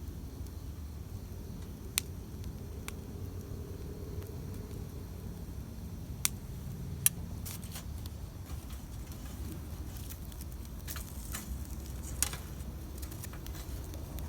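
Wood campfire burning with a low, steady rumble under scattered sharp crackles and pops. The loudest snap comes about seven seconds in, and a run of smaller crackles follows near the end.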